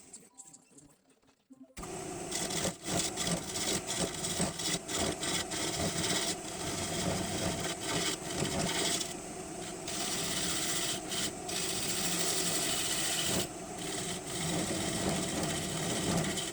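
Gouge cutting a green maple bowl blank spinning on a wood lathe: a rough, irregular scraping with a faint steady hum underneath, starting suddenly about two seconds in.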